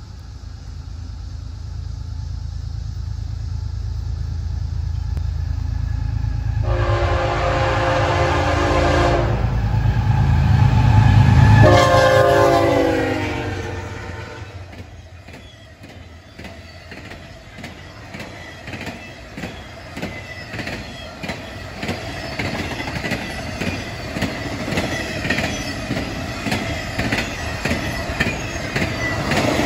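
BNSF intermodal freight train passing: the diesel locomotives' rumble builds as they approach, the air horn sounds twice, the second blast sliding down in pitch as the locomotives go by. Then a steady, rhythmic clickety-clack of wheels over the rails as the trailer and container flatcars roll past.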